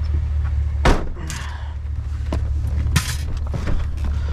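Truck engine idling with a steady low hum, and two sharp knocks or thuds about two seconds apart.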